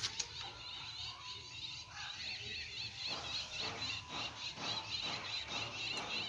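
Birds chirping in a rapid string of short, high chirps, with two sharp clicks at the very start.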